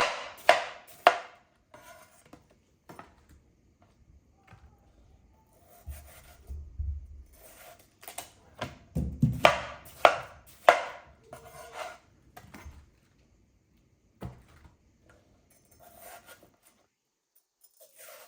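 Knife chopping on a cutting board: three strokes near the start, a run of about five strokes around the middle, and scattered lighter taps in between.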